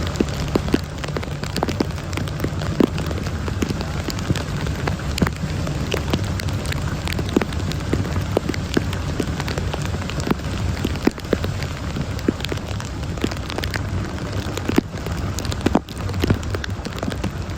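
Heavy rain falling steadily, with many sharp individual drops ticking on a surface close by.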